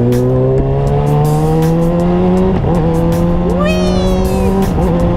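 A Kawasaki ZX-6R's 636 cc inline-four engine pulls in gear, its pitch rising slowly, then dips briefly at a gearshift about two and a half seconds in and runs steadily afterwards. A short high-pitched whine falls away about four seconds in.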